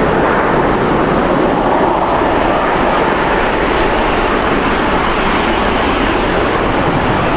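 Boeing 777-200ER jet engines at takeoff thrust: a loud, steady rush of noise that holds even throughout.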